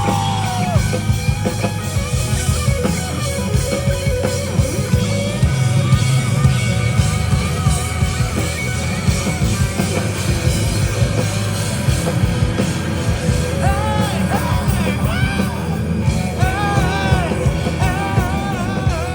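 Live rock band playing loud, with guitar, bass and drums; a singer's voice comes in over it in the last few seconds.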